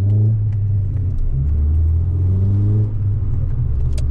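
Rover 216 GTI engine heard from inside the cabin, running at low revs while the car creeps along, as a steady low drone. It briefly dips about three seconds in.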